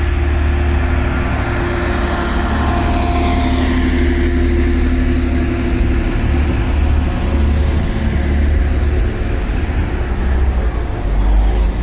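Class 185 diesel multiple unit running at the station, a steady engine drone, with wind rumbling on the microphone.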